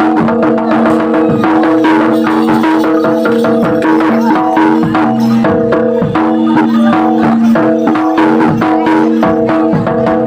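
Javanese folk ensemble music: a held, wavering melody line over busy drum and clicking percussion strokes.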